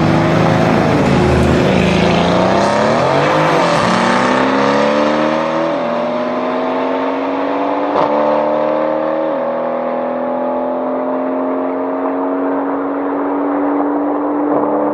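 Mercedes-AMG C63 S coupe's twin-turbo V8 with a straight-piped exhaust accelerating through the gears. The revs swing down and back up in the first few seconds, then climb steadily with sharp drops at upshifts about six and nine and a half seconds in. There is a single sharp knock about eight seconds in.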